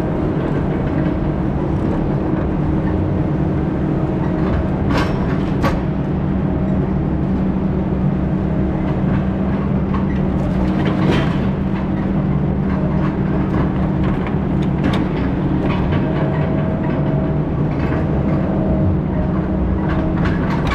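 Heavy diesel logging machine engine running steadily under load, with a few sharp metallic clanks about five and eleven seconds in.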